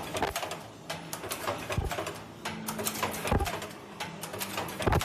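Semi-automatic ultrasonic mask earloop welding machine running: rapid mechanical clicking and clatter, with a dull thump about every one and a half seconds as it cycles through its welds.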